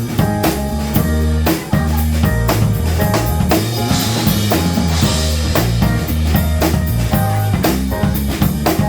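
Live jazz-funk band playing a groove: drum kit keeping an even beat of kick and snare hits under a bass line and sustained chords, with a cymbal wash about halfway through.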